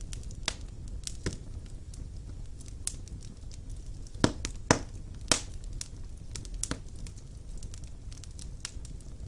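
Wood fire in a fireplace crackling, with irregular sharp pops over a low rumble of the flames; three louder pops come close together a little past the middle.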